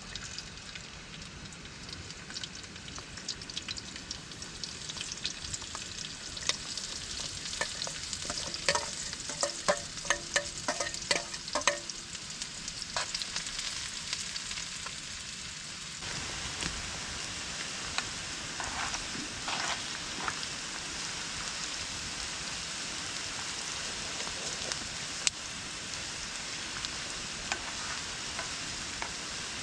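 Food frying in a pan with a steady sizzle, and a run of clinks and scrapes from a utensil stirring against the pan a third of the way in. The sizzle grows louder about halfway through.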